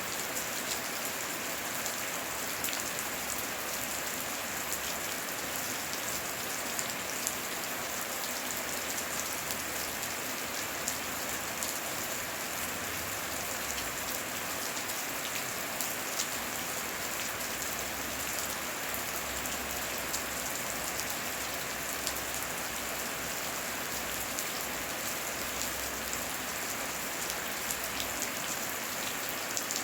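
Heavy rain falling steadily: an even hiss with many sharp drop ticks scattered through it.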